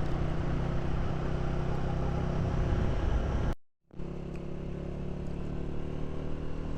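Honda CG 125's single-cylinder four-stroke engine running at a steady speed. About halfway through, the sound cuts out completely for a split second, then the engine carries on slightly quieter.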